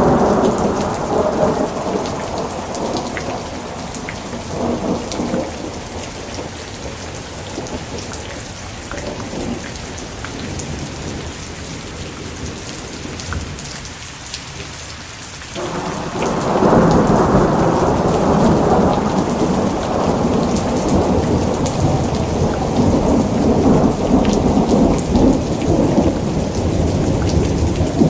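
Steady rain with thunder: a rumble dies away over the first few seconds, then after a stretch of rain alone a new thunderclap breaks suddenly just past halfway and rolls on loudly to the end.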